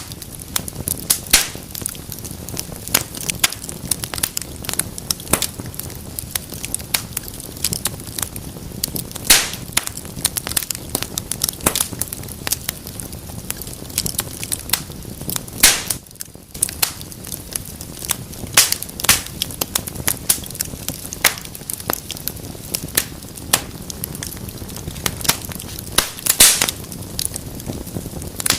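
Fire crackling in a fireplace: irregular sharp pops and snaps over a steady low hiss of burning, with a few louder pops standing out.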